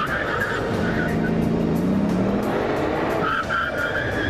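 Bugatti Veyron's engine running under hard driving, with the tyres squealing briefly at the start and again from about three seconds in.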